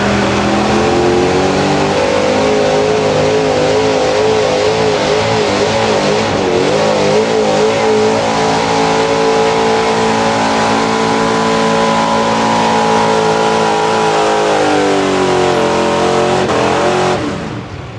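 Pulling truck's engine at full throttle during a pull: the revs climb over the first couple of seconds, hold high with some wavering, then fall away near the end.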